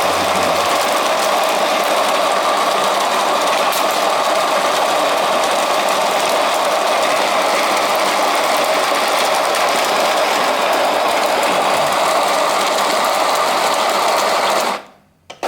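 WPM ZD-7 electric coffee grinder grinding a dose of about 18 g of espresso beans: the motor and burrs run steadily, then stop abruptly near the end.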